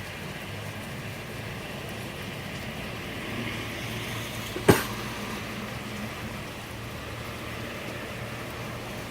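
Steady rain falling, with one sharp knock about halfway through.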